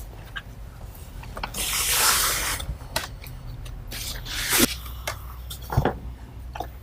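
Packaging and parts being handled while unpacking a boxed garage door opener: a rustling rush of about a second near the start, followed by scattered clicks and knocks.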